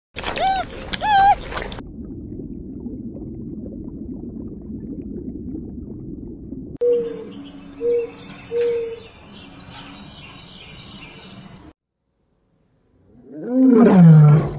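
A run of different animal calls. First a couple of cat meows, then a low rumbling stretch, then three short calls over a mix of other noises. After a pause comes a loud roar that falls in pitch near the end.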